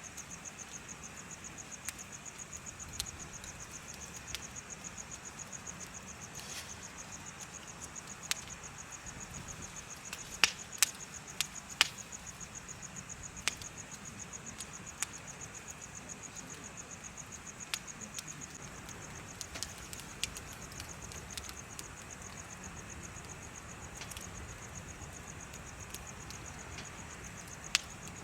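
Crickets chirping in a steady, rapidly pulsing high trill, over a bonfire crackling with scattered sharp pops. A few louder pops come close together about ten to twelve seconds in.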